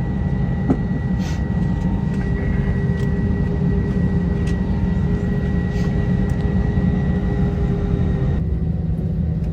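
Jet airliner cabin noise: a steady engine drone with a thin, high, steady whine over it, heard from inside the cabin. A small click sounds about a second in.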